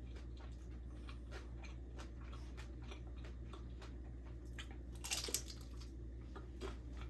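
A person chewing and biting into a flaky, crisp fried egg roll, with small crunchy clicks throughout and one louder crunch about five seconds in.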